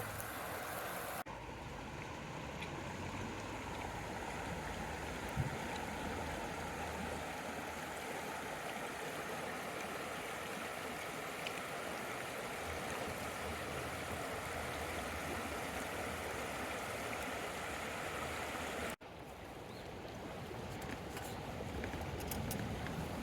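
River water flowing steadily, with the sound breaking off abruptly twice.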